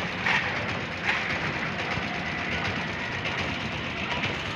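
Train noise at a railway station: a steady rumble with two brief sharper sounds, about a third of a second and a second in.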